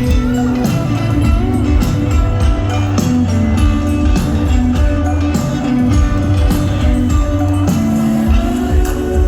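Live band music played loud over a concert sound system: a drum beat over a deep bass line, with pitched instruments and a voice in the mix.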